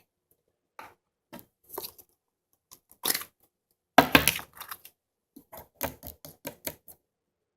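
Slime being squished and worked by hand, giving an irregular run of short clicks and pops, with the loudest cluster about four seconds in.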